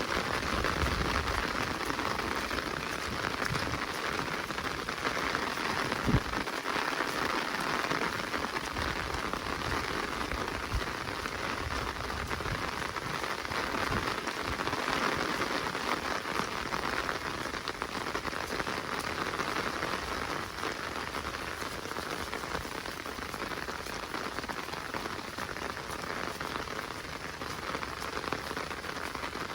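Steady rain falling in a forest, an even hiss of many drops, with one sharp tap about six seconds in.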